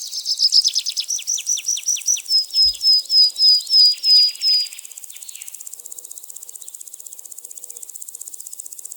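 A bird singing a fast series of high repeated notes, about four a second, that fades out around five seconds in, over a faint, steady insect chirring.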